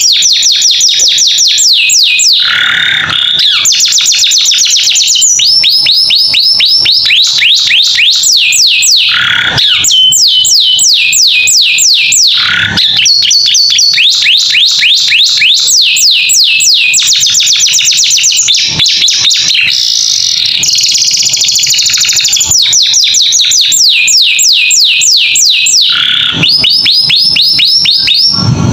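Domestic canary singing loudly and without pause: long rolls of fast, repeated down-sweeping whistled notes, switching to a new roll every second or two, with a few short harsh notes in between.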